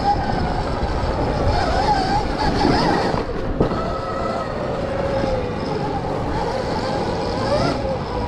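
Dirt bike being ridden on the track, its pitch rising and falling with the throttle over a steady rumble of wind on the microphone, with a brief drop about three seconds in.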